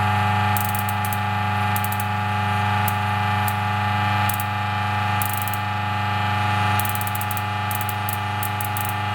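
A DF54 coffee grinder runs with a steady buzzing hum while the high-voltage spark of its deionizer module crackles in short irregular bursts, about ten of them. The potentiometer is turned up so the spark fires steadily and is bigger than wanted, enough to give a shock.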